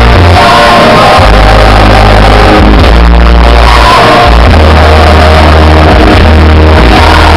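Loud live music played through a theatre sound system, with a heavy bass line and singers' voices, with the audience shouting along. The recording is pinned at full level throughout.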